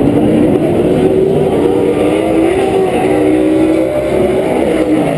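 Several PRO 4 short-course off-road race trucks' engines running hard at high revs. Several engine notes overlap, each rising and falling in pitch as the trucks accelerate and lift around the track.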